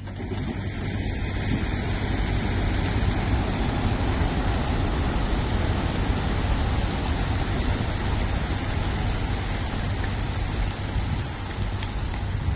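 Steady rushing roar of a mass racing-pigeon release: thousands of wings beating at once as the flock takes off, with a deep rumble underneath.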